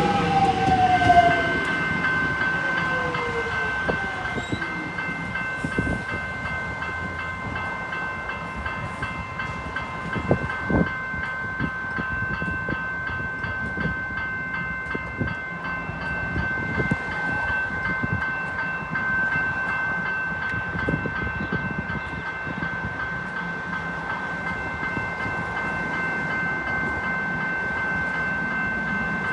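Electric suburban train with a motor whine falling in pitch as it slows to a stop during the first couple of seconds. It then stands with a steady high electrical whine from its onboard equipment, over a low rumble and a few scattered knocks.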